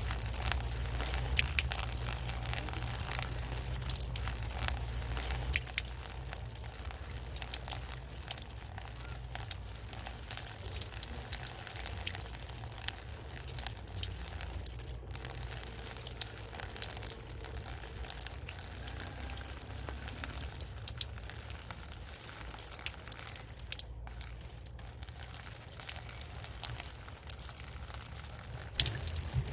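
Rain falling, a dense, steady crackle of drops striking close by, over a low rumble.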